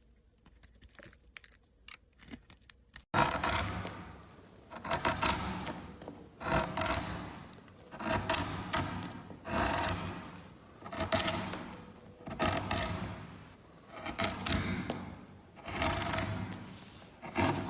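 A few faint clicks, then from about three seconds in, repeated scraping strokes, roughly one every second and a half.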